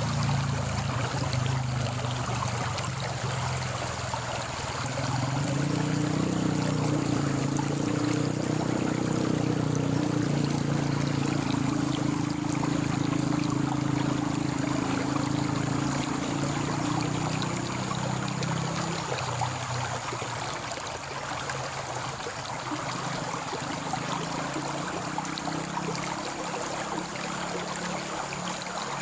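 Stream water running steadily after rain. A low steady hum sits under the water for the first two-thirds and fades out about nineteen seconds in.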